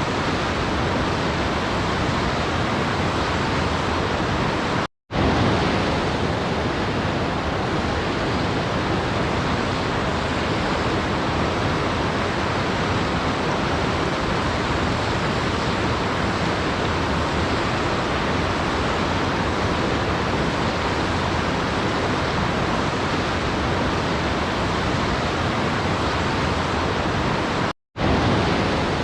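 Waterfall: the steady, even rush of falling water. It cuts out completely for a split second twice, about five seconds in and near the end.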